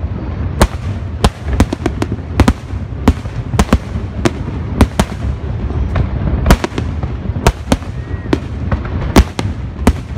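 Aerial firework shells bursting in a big display: sharp bangs at an irregular pace of about one or two a second, over a continuous low rumble.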